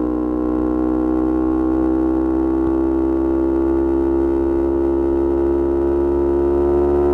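Yamaha R25 parallel-twin engine with a Kea Speed aftermarket exhaust, running at steady high revs. Its pitch creeps up slowly and evenly.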